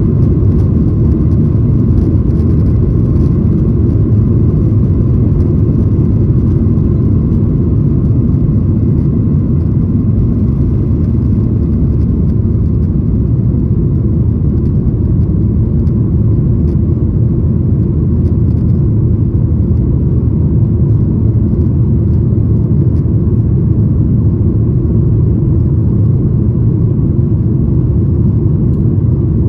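Steady, loud low rumble inside the cabin of a Boeing 737-900ER, from its CFM56-7B turbofan engines and the airflow around the fuselage.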